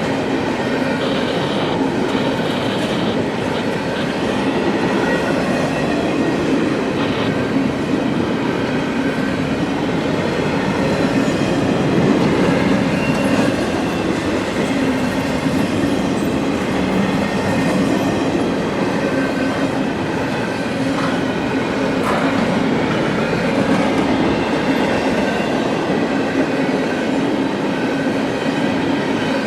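CSX freight train rolling past, a steady rumble of steel wheels on the rails with thin, steady squealing tones over it.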